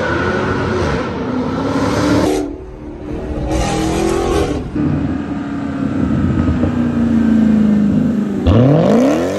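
Dodge Challenger Hellcat's supercharged V8 running loud, its pitch rising and falling with the revs and dipping briefly a few seconds in. Near the end it revs up sharply.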